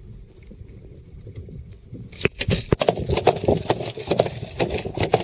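A quiet stretch, then from about two seconds in a rapid, irregular run of sharp knocks and clattering.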